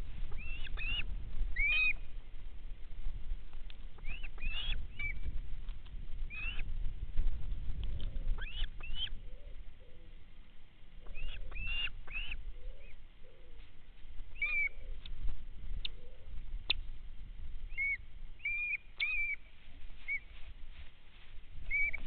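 Birds chirping: short high calls, often in quick runs of two or three, repeating every second or so over a steady low rumble.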